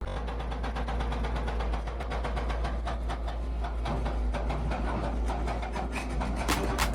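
Excavator's diesel engine running steadily with a low rumble and clatter. A regular music beat comes in near the end.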